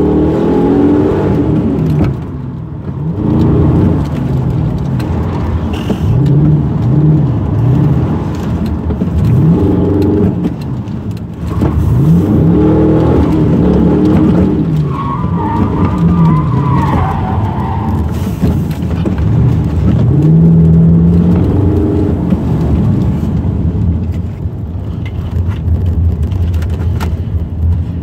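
Car engine heard from inside the cabin, revving up and dropping back again and again as the car is driven hard on an autocross run. A tyre squeal comes about halfway through and lasts a few seconds.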